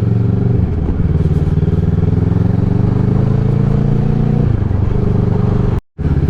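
150 cc motorcycle engine running under way, heard from the bike. The engine note climbs steadily, falling back sharply about half a second in and again after four seconds. A split-second dropout near the end.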